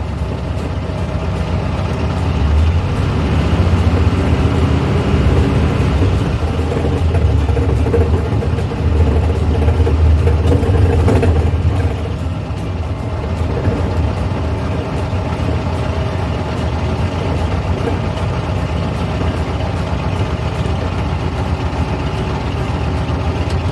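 A 1970s Volkswagen's engine running steadily while driving. It grows louder a couple of seconds in and again near the middle, then eases off about halfway through.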